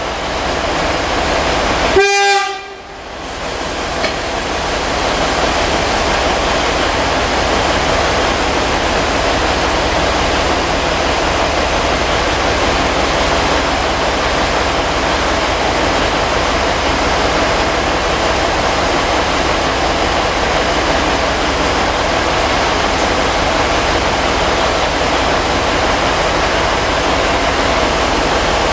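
A train horn gives one short single-tone toot about two seconds in. Around it, a steady, loud mechanical noise runs on without change, as a diesel railcar idles at the platform.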